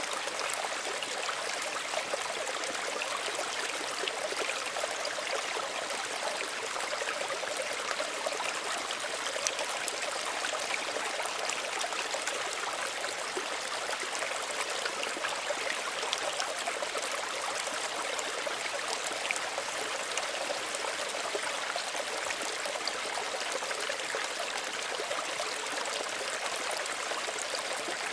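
A small stream running steadily, water trickling and splashing over stones in an even rush with small irregular ticks of splashes.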